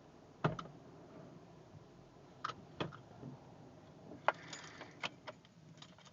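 Scattered clicks and knocks: a low thud about half a second in, a couple of knocks a little after two seconds later, and the loudest sharp knock about four seconds in, followed by a brief hiss and a few lighter clicks.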